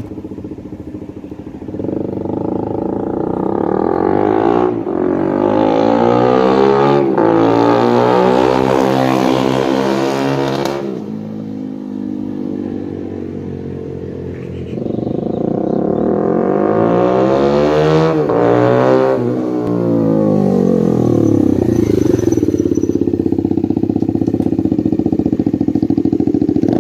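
Bajaj Dominar 250's single-cylinder engine running with its exhaust removed, loud and raw. It is revved up and back down twice, then held at steady revs for the last several seconds.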